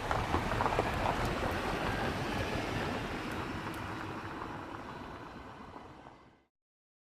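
A rushing noise with no clear pitch, swelling a little early on and then fading away about six seconds in.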